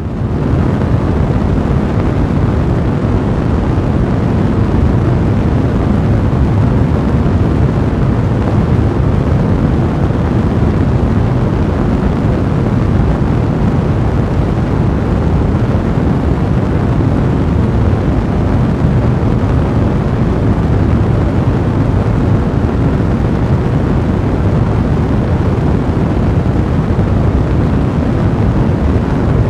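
A blazing fire burning with a steady, dense, low roar.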